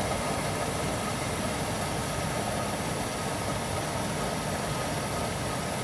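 Goodman gas furnace running with its burners firing and blower going: a steady, even rushing hum. The burner flames are rolling out, which the technician takes for the reason it tripped its rollout switch.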